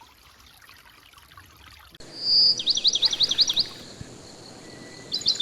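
A small bird singing over the trickle of a stream: a high held note about two seconds in, then a quick run of about six repeated chirps, and another short burst of chirps near the end.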